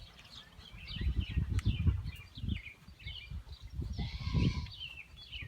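Small birds chirping repeatedly in quick short calls, over low irregular rumbling and thumps.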